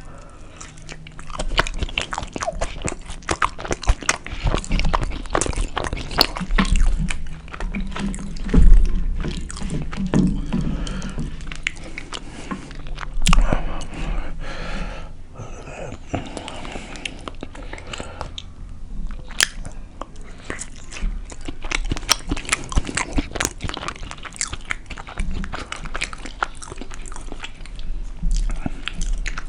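Close-miked chewing and biting of a beef burrito, with many small mouth clicks throughout and a couple of louder bites, about nine and thirteen seconds in.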